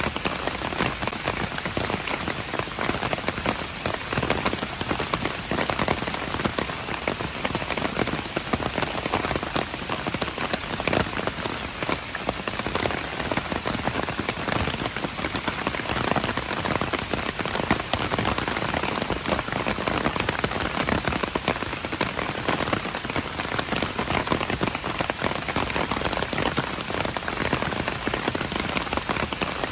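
Steady rain falling on hard surfaces, a dense even patter of many drops with no let-up.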